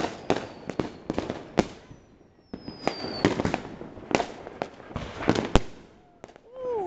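Fireworks and firecrackers going off all around in a dense run of sharp bangs and cracks. A brief lull comes about two seconds in, followed by the falling whistle of a firework rocket.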